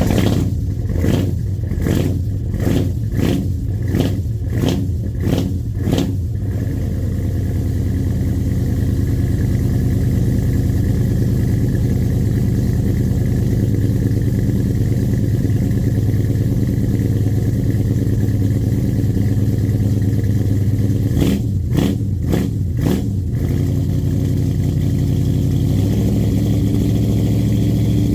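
Car engine running after a cold start, its throttle blipped in a quick series of short revs over the first six seconds, then settling to a steady idle. Three more quick blips come about 21 seconds in, and the idle steps up slightly near the end.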